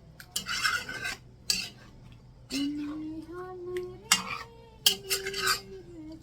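Metal spoon stirring and scraping in a pot of fish curry, in short strokes and clinks. From about halfway, a steady pitched hum runs underneath, stepping up and down in pitch a few times.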